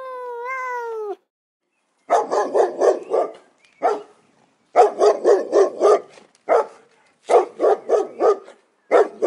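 A cat's long meow falls in pitch and ends about a second in. After a brief pause a dog starts barking in quick runs of several barks, about four a second, with single barks in between.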